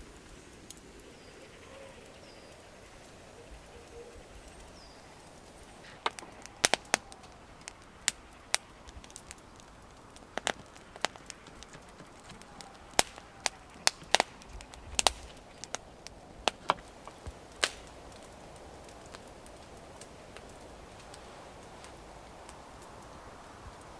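Campfire crackling: about twenty sharp, irregular pops and snaps of burning wood, bunched between about six and eighteen seconds in, over a faint steady background.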